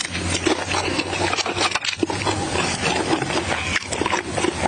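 Close-miked chewing of gristly stewed beef nose: wet mouth smacking and a dense run of small clicks and rasps while eating.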